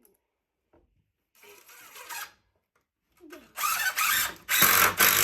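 Power drill driving screws into a wooden bed frame in several short runs: a brief burst about one and a half seconds in, then louder, longer runs near the end.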